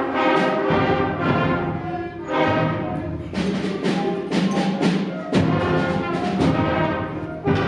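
Middle school concert band playing a lively passage, brass carrying the melody over repeated percussion hits.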